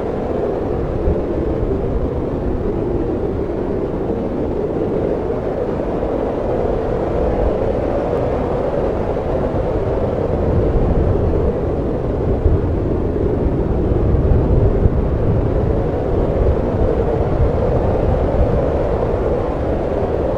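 Snowstorm wind blowing steadily with a low rumble, swelling into stronger gusts about halfway through.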